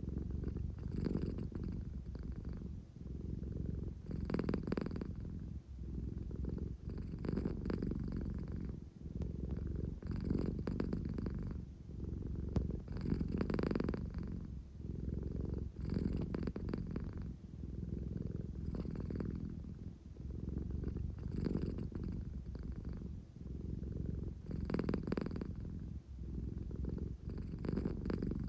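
American Shorthair cat purring continuously, the purr swelling and easing with each breath about every three seconds. It is a sleepy, contented purr that the owner likens to an engine.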